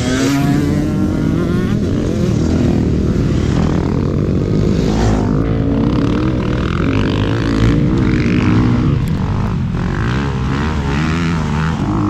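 Motorcycle engine running, its pitch rising and falling as the throttle is worked.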